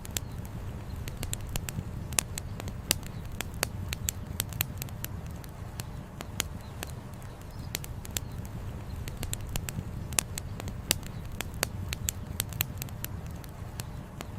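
Wood campfire crackling, with many irregular sharp pops, several a second, over a steady low rush of a flowing river.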